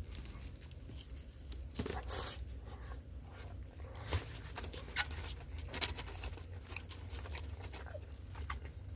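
A person biting into and chewing a grilled chicken wrap close to the microphone: irregular soft crunching and mouth clicks over a low steady hum.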